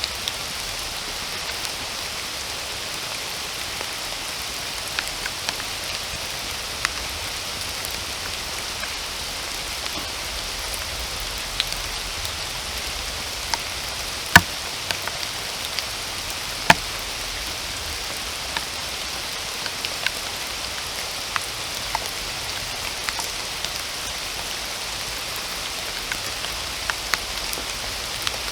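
Steady rain falling, with scattered single drops landing close by as sharp taps; the loudest comes about halfway through.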